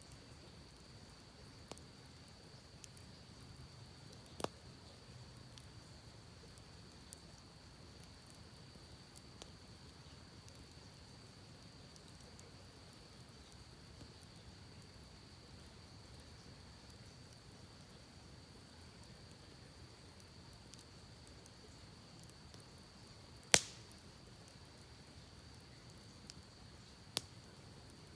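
Wood campfire crackling sparsely: a few sharp pops, one much louder than the rest about three-quarters of the way through, over a soft steady hiss.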